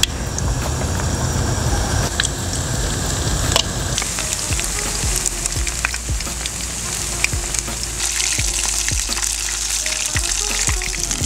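Batter-coated opaleye fillets deep-frying in hot oil in a pan: a steady sizzle with many small crackling pops.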